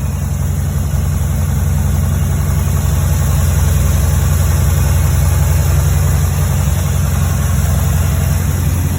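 1963 Chevrolet Bel Air engine idling steadily after a cold start, getting slightly louder about a second in.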